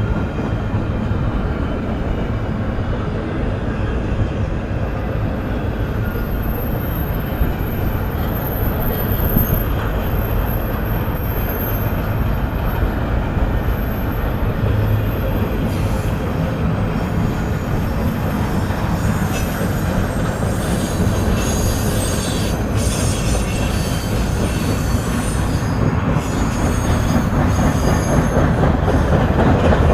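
Union Pacific freight train cars rolling past on steel rail, a steady rumble of wheels on track. A thin high wheel squeal rises over it for several seconds early on, and in the second half a run of quick clicks and clatter joins it as the cars roll by.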